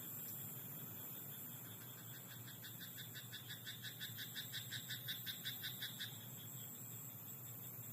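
A frog in a rice paddy calling a rapid run of croaks, about six a second, that swells over about four seconds and then stops, over a faint steady background chorus.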